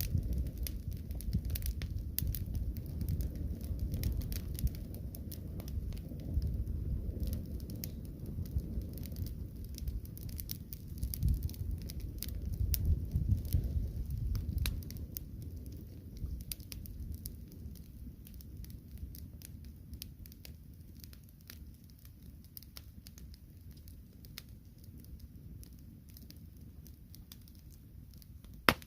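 Fire crackling: many small sharp snaps over a low rumble that dies away about halfway through, with one loud pop near the end.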